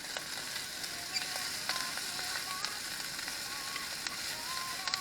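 Salted offal grilling over charcoal, sizzling steadily with scattered sharp crackles and pops.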